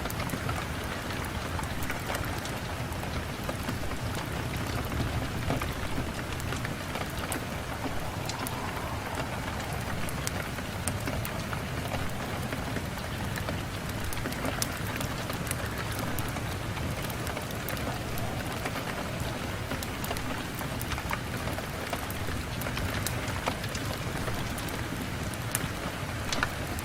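Steady rain on a window pane, with small sharp ticks of drops scattered through an even hiss.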